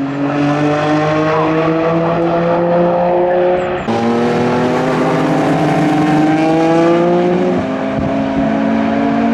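Nissan Skyline R32 GT-R Group A race car's twin-turbo straight-six running hard on track, its revs climbing steadily. There is a sudden break in the note about four seconds in, and the pitch drops briefly near the end.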